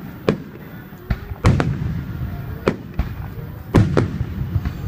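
Aerial fireworks shells bursting: several sharp bangs a second or so apart, each followed by a rolling echo, over a low continuous rumble.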